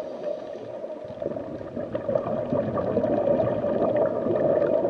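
Underwater ambience sound effect: a steady bed of bubbling and gurgling water with a constant low rush.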